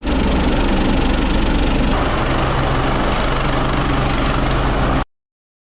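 Loud, steady engine or machinery noise with a deep drone, changing slightly in character about two seconds in and cutting off abruptly about five seconds in.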